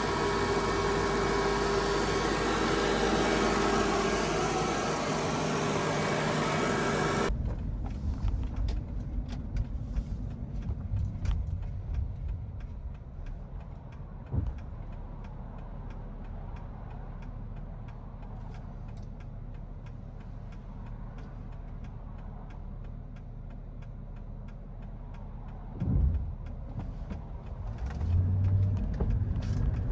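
Mercedes-Benz E430's V8 engine running steadily and loudly for about seven seconds. It then drops abruptly to a much quieter low rumble with scattered clicks, a brief thump near the end, and the engine note coming up again at the very end.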